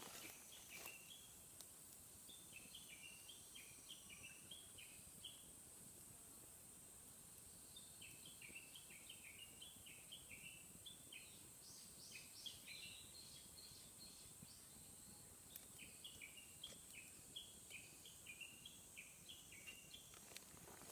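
Faint bird song: a bird repeating quick runs of short chirping notes in three bouts, over a steady high hiss.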